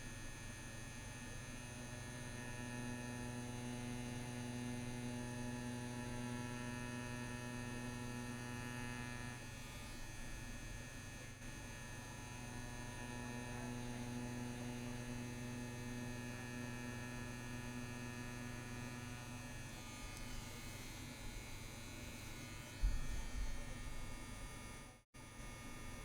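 CNC WE tattoo machine running with a steady electric buzz as it works lines into practice skin, its tone shifting slightly a couple of times. A short low thump comes near the end.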